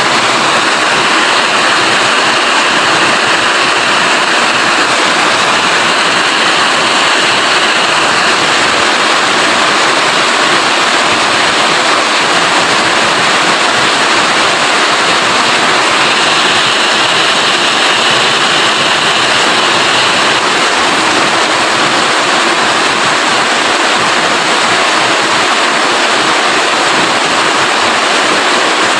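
Steady, loud rain: an even hiss of falling water with no breaks.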